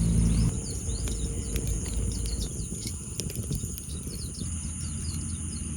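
Outdoor night-time ambience: many short, rapid chirping calls over a low rumbling background. A low steady hum stops about half a second in.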